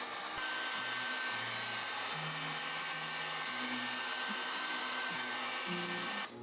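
Heat gun blowing steadily, used to soften plexiglass for bending. It cuts off suddenly near the end, with quiet background music underneath.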